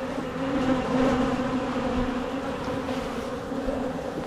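Many honeybees buzzing around an opened hive, a dense, steady hum.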